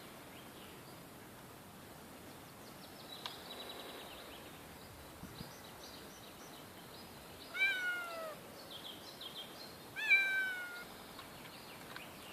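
Donskoy sphynx cat meowing twice, a few seconds apart, each meow falling in pitch, while it clings in a tree and hesitates to climb down.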